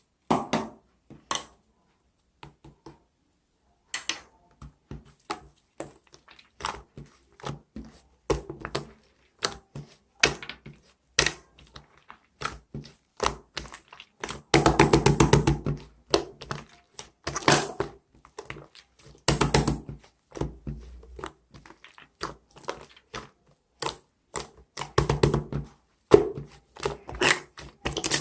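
Penguins calling in harsh, rapidly pulsed bursts, the longest about two-thirds of the way through, among many short clicks and knocks.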